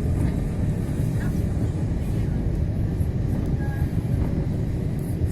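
Airbus A321 during its takeoff run, heard from the cabin: engines at takeoff thrust with a loud, steady, deep rumble.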